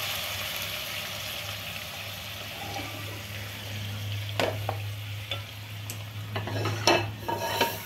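Chicken masala sizzling in hot oil in a pot just taken off the flame, the hiss slowly dying away. A steady low hum runs underneath, and a few short knocks and clatters come in the second half.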